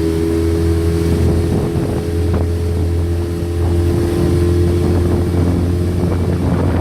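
Boat motor running steadily under way, a constant low hum with steady tones above it and a noisy rush.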